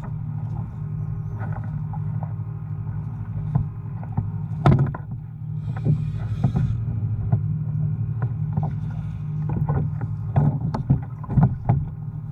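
Fishing kayak on open water: a steady low hum runs under irregular knocks and short splashy bursts against the hull, which grow busier in the last couple of seconds.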